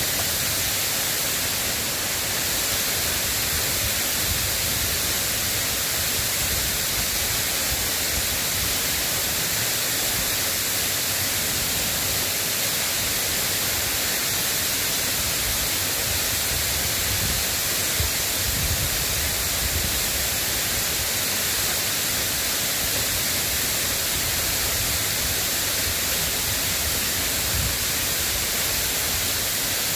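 Steady rain falling, a continuous even hiss, with a faint low rumble coming and going underneath.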